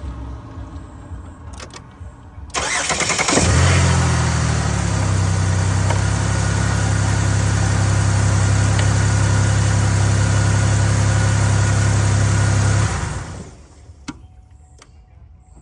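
Chevy Uplander's 3.9-litre V6 cranked by a newly fitted starter, catching within about a second and settling into a steady idle. The quick start shows the replacement starter works. The engine stops about ten seconds later, then a single click follows.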